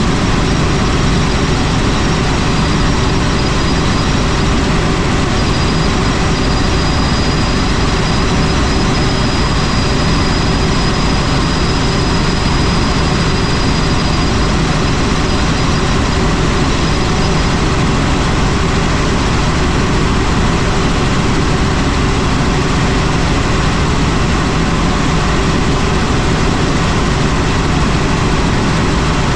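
Helicopter in flight, heard on board: a loud, steady rush of rotor and engine noise, with a faint high whine through the first half.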